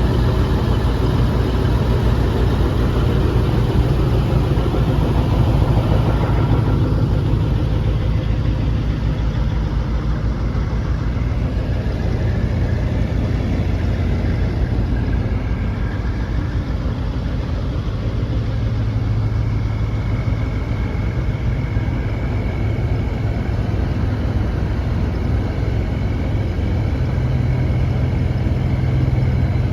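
Motor vehicle engine running steadily: a continuous low drone whose pitch shifts slightly a few times.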